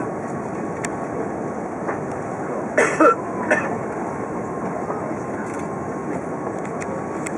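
Steady airliner cabin noise inside an Airbus A380 on approach, with a faint steady whine. About three seconds in, a passenger coughs briefly, followed by a smaller second sound.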